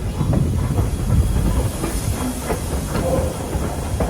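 Train rolling along the rails with a low rumble, a steady hiss, and scattered clicks of the wheels over rail joints.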